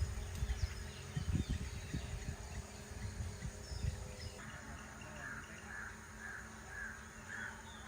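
Low rumbling bumps and knocks, then a bird calling over and over, short calls about twice a second.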